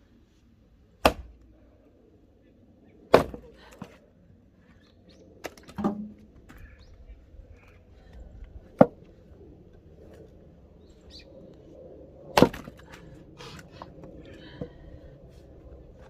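Axe splitting firewood: five sharp chopping strikes into wood, a few seconds apart.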